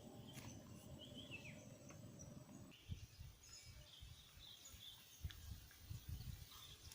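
Faint outdoor background with scattered short bird chirps. A thin, steady high whine stops about a third of the way in. Uneven low rumbling bumps come and go in the second half.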